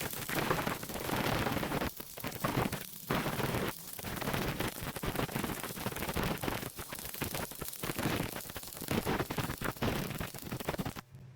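Electric welding arc crackling and spitting in continuous runs with brief breaks, cutting off abruptly near the end.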